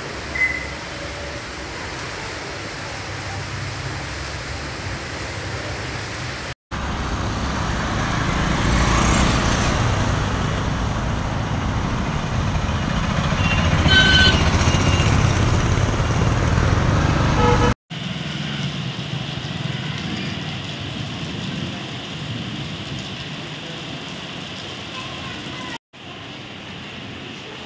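Outdoor rain ambience: a steady hiss of rain and wind, with a louder stretch of wet-road traffic and motorbikes passing near the middle. The sound breaks off briefly three times where clips are joined.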